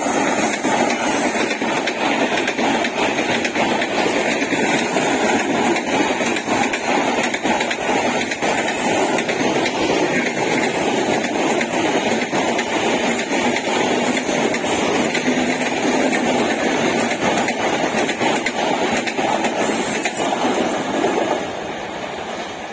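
Train passing at speed, its coaches' wheels clattering rapidly over the rail joints in a steady, dense rush of noise that eases off slightly near the end.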